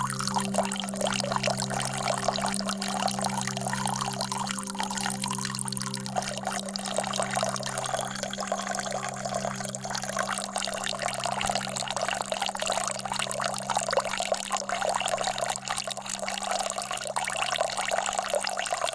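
Water steadily trickling and pouring, over a low, steady, unbroken hum.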